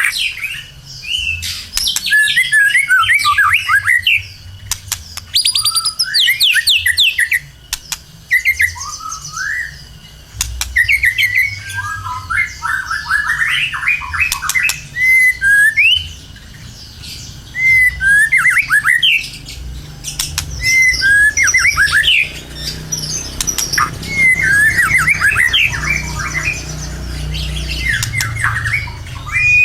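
White-rumped shama (murai batu) in full, energetic song: a long run of fast, varied whistled phrases, sweeps and trills in quick bursts with short gaps, over a low steady hum.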